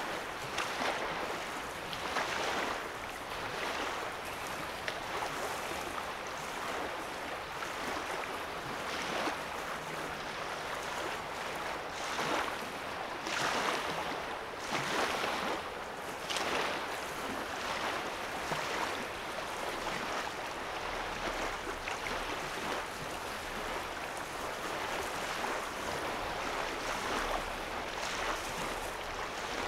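Small lake waves lapping on a sandy shore, in irregular soft washes every second or two over a steady background of water noise.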